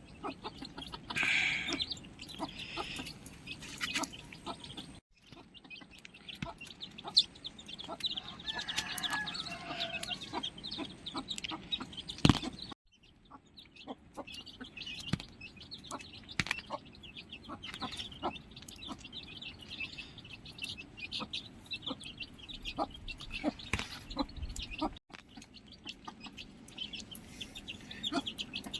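Chickens clucking and chirping, with scattered sharp clicks and knocks. The sound breaks off abruptly three times, at the cuts between shots.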